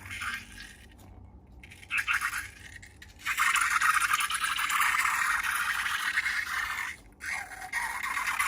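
Slime being worked by hand, making a crackly, scraping noise in stretches with short breaks, steady from about three seconds in.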